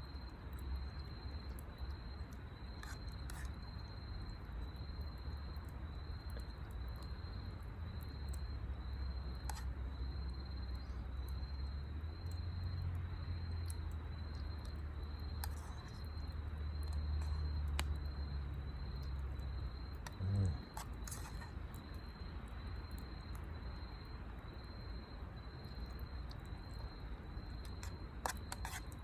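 Insects chirping in an evenly pulsing high trill, over a steady low rumble, with scattered faint clicks and one short low thump about twenty seconds in.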